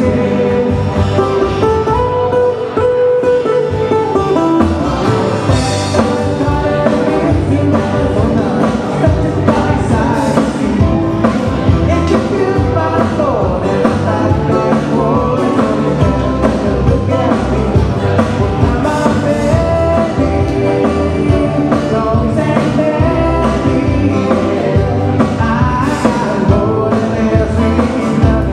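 Live band music: singing over guitar and bass with a steady beat.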